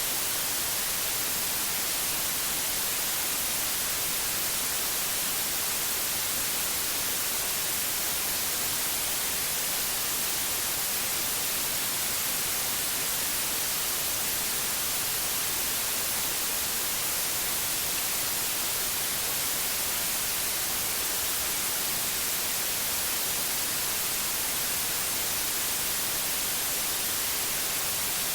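Steady white noise: an even, unbroken hiss, brightest in the highest frequencies, with no changes or events.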